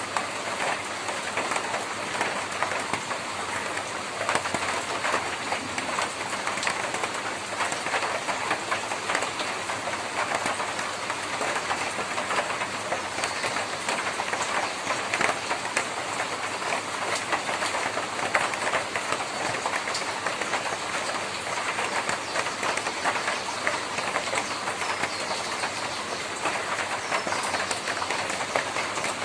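Rain falling on a tin roof: a dense, steady patter of countless small drop impacts on the metal sheets.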